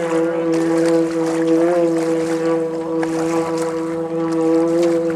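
Engine of a homemade amphibious Subaru car-boat running at a steady pitch while it drives through the water, with water splashing and spraying around the hull.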